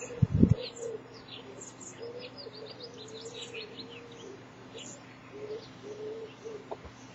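Garden birds chirping, many short high calls, over a lower wavering call that sounds like cooing. A brief loud low thump comes just after the start.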